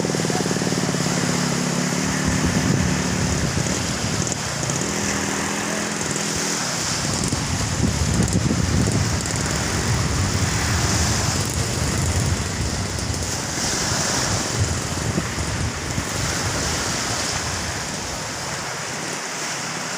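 Strong wind buffeting the microphone over breaking surf, a continuous rushing noise. A motor engine hums steadily under it for the first six seconds or so, then fades out.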